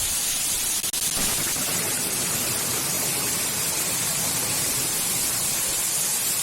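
Steady rushing hiss of water, heaviest in the high end, with a brief dip about a second in.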